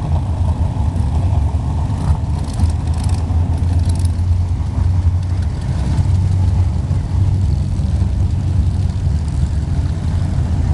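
Vintage modified stock car engines running with a steady, loud low rumble.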